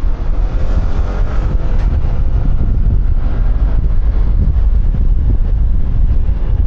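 Wind buffeting a helmet-mounted microphone on a moving QJMotor Fortress 160 scooter, a steady heavy rumble. Under it, the scooter's engine note rises faintly in pitch during the first two seconds as it accelerates.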